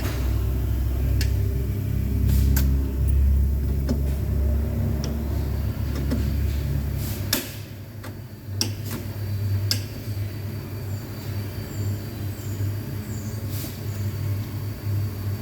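A Scania vehicle runs with a low engine rumble, broken by scattered sharp clicks. The deepest part of the rumble drops away about halfway through, leaving a lighter hum.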